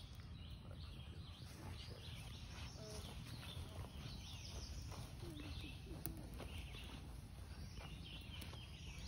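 Birds chirping and calling, many short scattered calls over a steady low rumble, with an occasional faint click.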